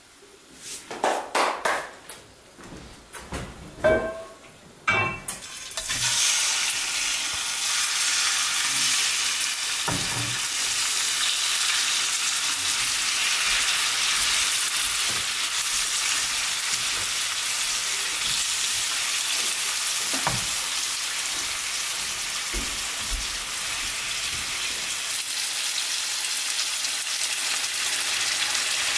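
Raw chicken breast pieces sizzling in a hot frying pan. The sizzle starts suddenly about five seconds in and then runs steadily. Before it come a few short knocks and clatters, and a few light knocks later as more pieces go in.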